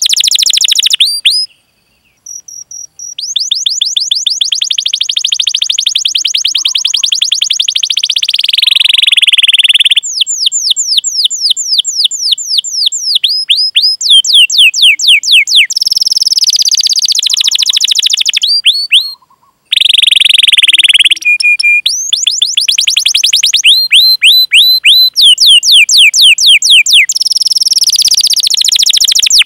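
Domestic canary singing long rolling trills of rapid, repeated high down-slurred notes, broken by short pauses about two seconds in and again near the middle.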